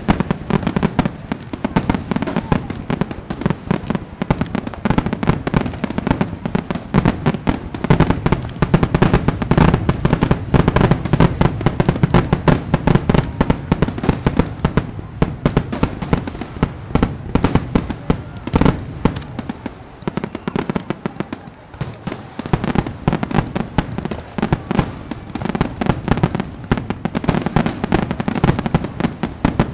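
Fireworks going off: a dense, continuous run of bangs and crackles that eases off briefly about two-thirds of the way through.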